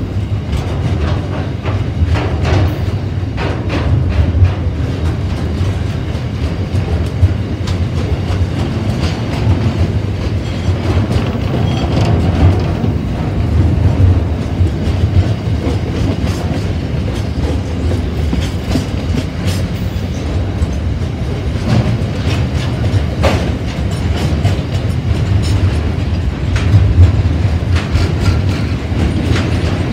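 Freight train's container wagons rolling past: a steady low rumble of wheels on rail, with frequent clicks as the wheels cross rail joints.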